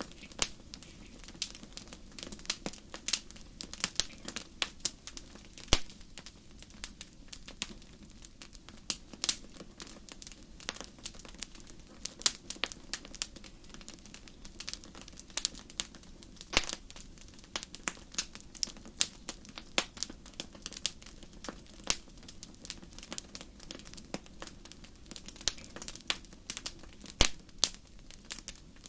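Fire crackling in a fireplace: a steady low rush with many irregular sharp crackles and an occasional louder pop.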